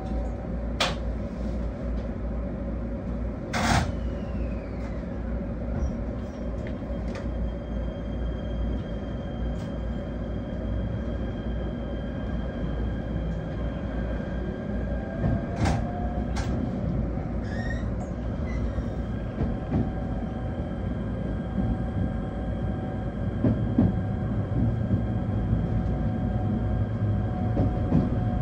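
Electric passenger train running along the track, heard inside the car: a steady rumble of wheels on rail with a faint steady whine and a few sharp clicks, the rumble getting a little heavier with small knocks near the end.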